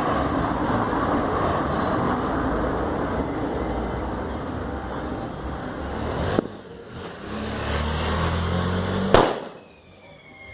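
Small 'beijo de moça' firework burning with a steady fizzing hiss, then a sharp crack about six seconds in and a louder bang near the end.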